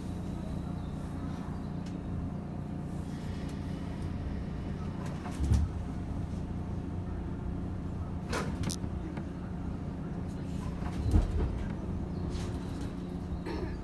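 Cabin sound of a JR West 117 series electric train: a steady low hum, with a heavy thump about five and a half seconds in and another about eleven seconds in, and sharp clicks around eight seconds in and near the end.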